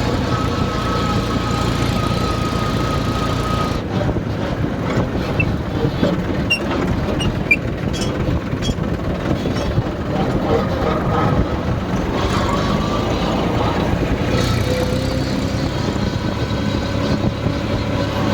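Tractor engine running steadily as the tractor is driven, with a few short clicks and rattles partway through.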